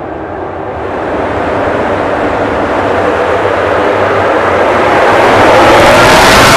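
A pack of MotoGP racing motorcycles at full throttle, their engine noise swelling steadily louder as they approach.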